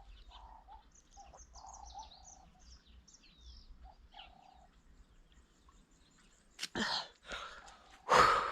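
Small birds chirping and twittering in many short high calls through the first half. In the second half come a sharp click and a few short noisy bursts, the loudest just before the end.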